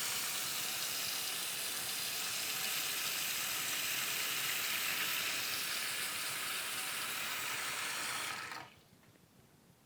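Kitchen tap running steadily into the sink, stopping suddenly about eight and a half seconds in. The sink is blocked between the strainer and the siphon and is not draining.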